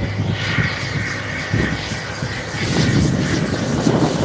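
Jet aircraft engines as a jet comes in to land: a steady rushing roar with a whine near the top, getting louder in the second half.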